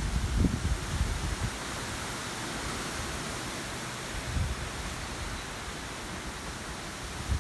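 Wind blowing over a cornfield: a steady rushing hiss, with low buffeting of wind on the microphone during the first second and again briefly about four seconds in.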